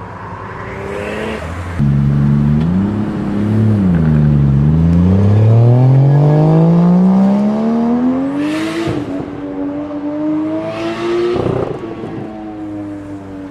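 Toyota Supra MK4's 2JZ inline-six accelerating hard. The revs blip up and down, then climb in one long pull, drop sharply with a short burst of hiss at each of two gear changes, and fall away near the end.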